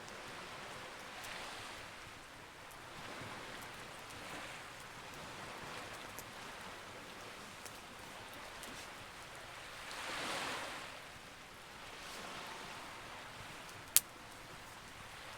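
Campfire crackling with a few sharp pops, one loud pop near the end, over a soft wash of sea waves that swells and ebbs every couple of seconds, the biggest swell about two-thirds of the way in.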